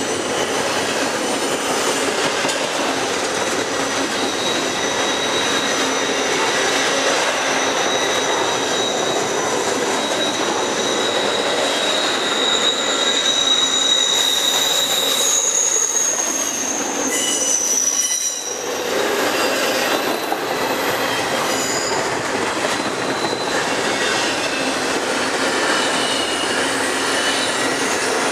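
Double-stack intermodal train's well cars rolling past at close range: a steady rumble and rattle of steel wheels on rail, with high-pitched wheel squeal that comes and goes.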